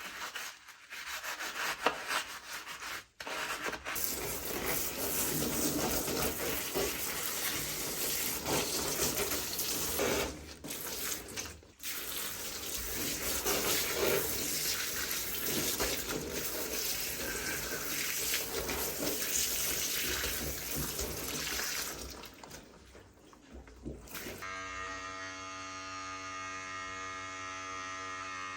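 Steady scrubbing and rubbing noise from cleaning a plastic toy remote control, with short breaks. About 24 seconds in it gives way to a steady buzzing hum.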